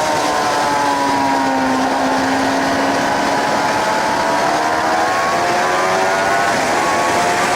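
Suzuki GSX-R 750's inline-four engine at speed, with wind rushing over the microphone. The revs ease off through the first couple of seconds, then climb steadily again as it accelerates.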